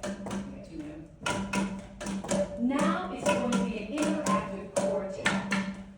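Boomwhacker tubes struck in a rhythm: a low tube repeats an ostinato support note while other tubes play a melody over it. A voice slides up and down about halfway through.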